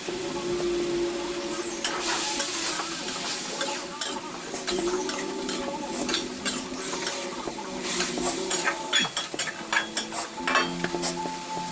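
Stir-frying in a pan: a metal spatula knocks and scrapes against the pan over the sizzle of hot oil, with the clicks coming faster in the second half.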